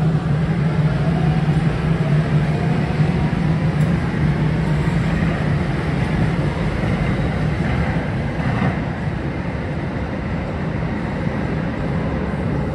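DART light-rail train pulling out of the station. A steady rumble carries a faint rising motor whine in the first few seconds, and the sound eases off a little later on as the train moves away.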